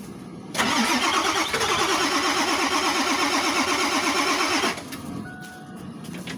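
Engine being turned over by its starter in an attempt to start it cold, cranking with an even, rapid beat for about four seconds and then stopping.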